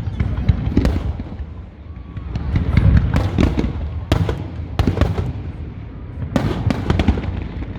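Fireworks display: aerial shells bursting in an irregular series of sharp bangs and crackles over a continuous low rumble.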